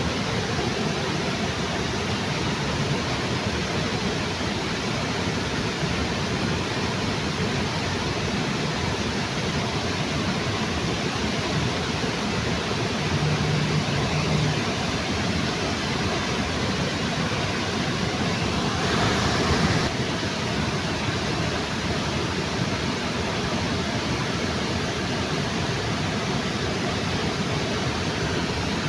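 Waterfall under a bridge: a steady, even rush of falling water. About two-thirds of the way in, a brief louder swell of rushing noise lasts about a second.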